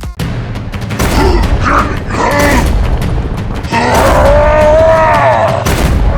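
A loud, dense low rumble with scattered booming hits, and a long drawn-out groaning cry that rises and falls from about four seconds in.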